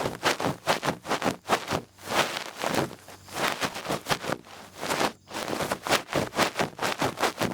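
Feather-tipped ear pick rustling and scratching in quick, uneven strokes for ear-cleaning ASMR, with a brief pause about five seconds in.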